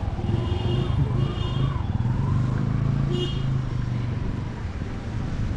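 Road traffic: a motor vehicle engine running close by with a steady low hum. Three short high beeps sound in the first three and a half seconds.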